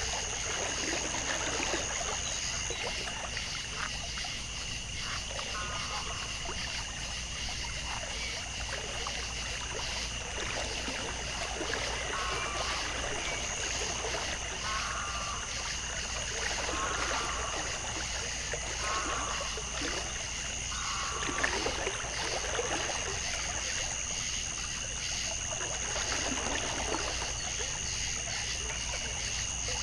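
Natural outdoor soundscape: water trickling under a steady high-pitched hum, with short animal calls repeated every few seconds in the middle stretch.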